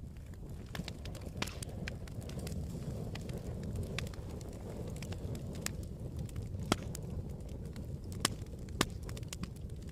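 Campfire crackling: irregular sharp pops and snaps over a low, steady rumble of burning, with a few louder pops in the second half.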